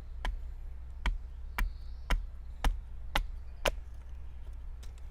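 Hatchet chopping into a green-wood spoon blank during rough shaping: seven sharp, evenly spaced blows about two a second, stopping a little over halfway through.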